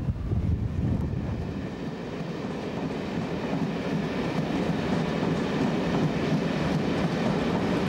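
InterCity passenger train of Mk3 coaches rolling along the station tracks: a steady rumble of wheels on rail that grows a little louder after a couple of seconds.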